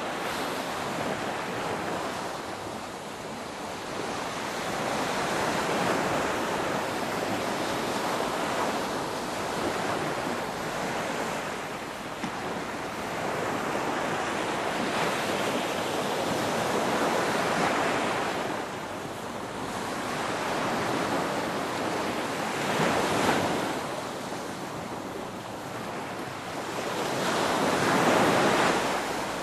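Ocean waves breaking and washing in, a rushing noise that swells and fades every several seconds, with the biggest surge near the end.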